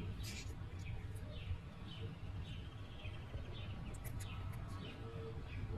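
Small birds chirping: short high chirps repeating a few times a second, over a low steady background rumble.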